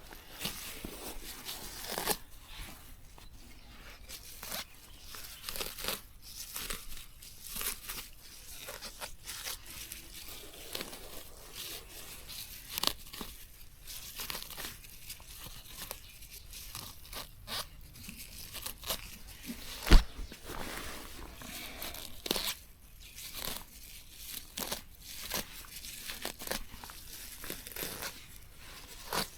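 Plants being torn and pulled up: irregular tearing and crunching, with one sharp knock about twenty seconds in.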